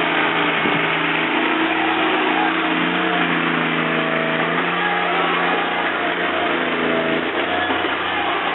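Engine and hydraulics of a firewood processor running steadily, with a constant low hum under higher tones that shift in pitch every second or so.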